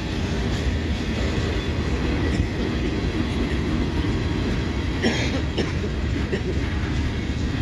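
Freight train cars rolling past close by: a steady rumble of steel wheels on the rails, with a brief sharper sound about five seconds in.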